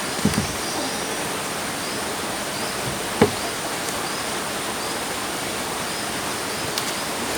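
Steady rushing outdoor background noise, with short faint high chirps repeating about once a second. A sharp knock comes about three seconds in, with a smaller double knock just after the start.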